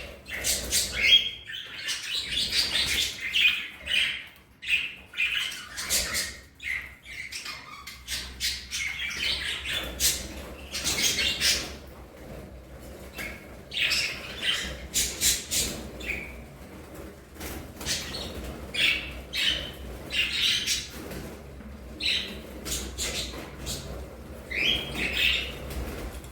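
Budgerigars chirping, chattering and squawking continuously, many short calls overlapping, busiest in the first few seconds.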